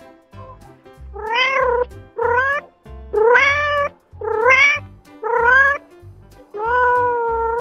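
Ocelot meowing six times: short calls that rise and fall in pitch, the last one longer and held, over soft background music.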